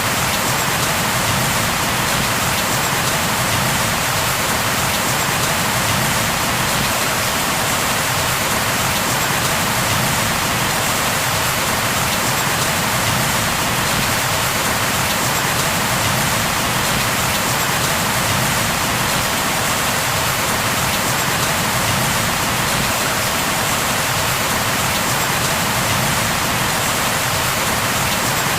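Steady heavy rain falling on a surface, a continuous even hiss with no breaks.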